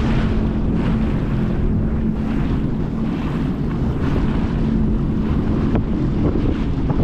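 Sea-Doo GTX 230 jet ski running at a steady speed, its engine holding one even note, with heavy wind on the microphone and water rushing past.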